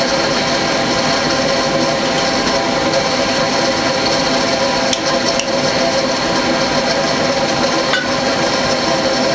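Steady machine noise: a continuous whir with several steady tones held throughout, and a couple of faint ticks about five and eight seconds in.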